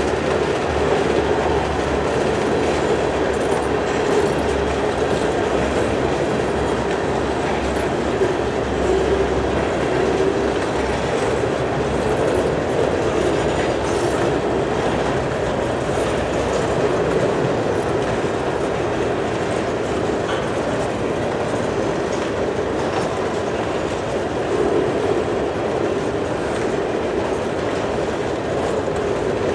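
Covered grain hopper cars of a freight train rolling past: a steady rumble of steel wheels on rail.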